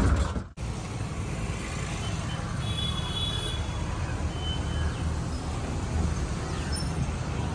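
Tractor diesel engine running steadily, with an even low pulsing. The sound cuts out sharply about half a second in, then resumes at a lower level.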